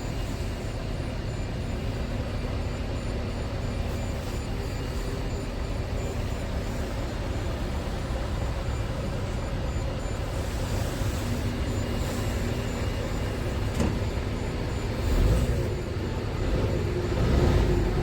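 Scania R580 truck's V8 diesel engine running steadily, growing louder in swells about 15 seconds in and again near the end.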